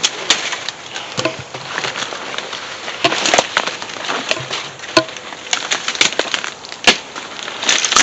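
Footsteps crunching through dry leaves, brush and twigs, with irregular sharp snaps and crackles.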